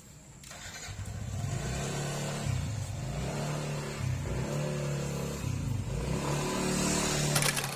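A motor vehicle's engine running, its pitch shifting up and down, coming in about half a second in.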